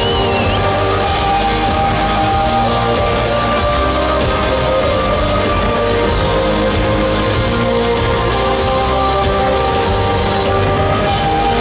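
Live rock band playing a loud, steady instrumental passage with guitars and sustained held chords, without vocals.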